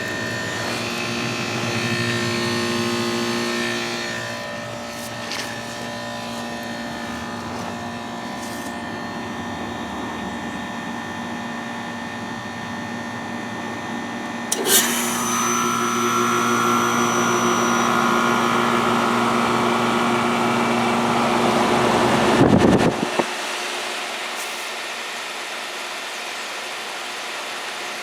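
1997 York Stellar Plus heat pump outdoor unit running with a steady hum as it goes through defrost. About halfway through, a sudden loud whoosh and several seconds of refrigerant hissing, typical of the reversing valve shifting; near the end, the low hum drops away.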